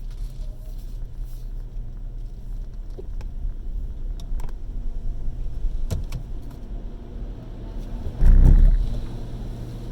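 Automatic car wash heard from inside the car's cabin: a steady low, muffled rumble of the wash machinery, with a few sharp knocks against the body. A little after eight seconds comes one loud, low surge lasting about half a second.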